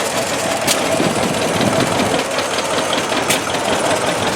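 Vintage farm tractor engine running steadily, with two sharp clicks, one under a second in and one a little past three seconds.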